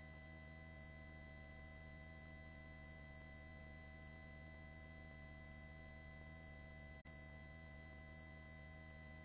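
Near silence: a faint steady hum with a few thin, high, unchanging tones, and a brief dropout about seven seconds in.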